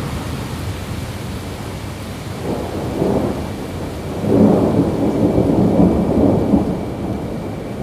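Distant thunder rolling over steady rain. A low rumble swells about two and a half seconds in, then a louder, longer roll follows from about four seconds to six and a half.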